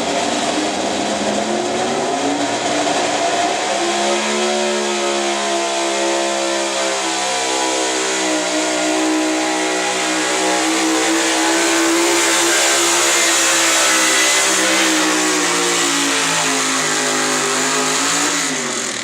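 Gasoline pulling truck's engine at full throttle during a truck pull: the pitch climbs about two to four seconds in, holds high and slowly sags under load, then drops quickly near the end as the throttle comes off.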